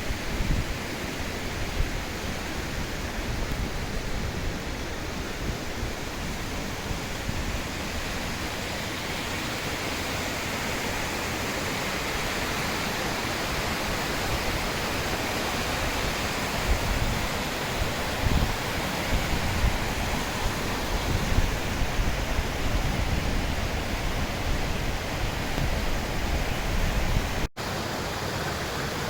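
Waterfall rushing steadily, a dense even wash of falling water. Low buffeting on the microphone comes and goes, and the sound breaks off for a split second near the end.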